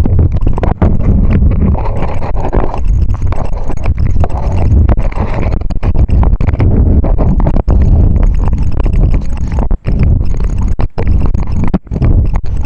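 Heavy wind buffeting on the microphone while riding a bicycle, a loud rumble, broken by frequent knocks and rattles from the bike jolting over rough ground.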